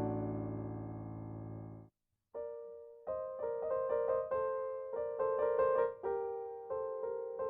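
Piano music. A low, sustained chord dies away and cuts off about two seconds in. After a short gap, a new piece begins with a gentle melody of single notes in the middle and upper register.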